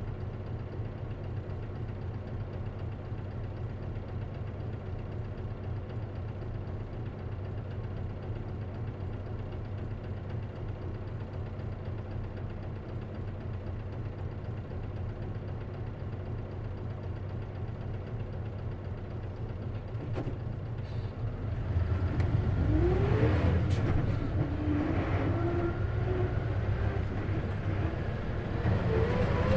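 Isuzu KC-LV380N city bus with a manual gearbox, heard from inside: the engine idles steadily, then after a couple of clicks about twenty seconds in the bus pulls away, the engine getting louder with rising whines as it accelerates, eases off briefly and rises again near the end.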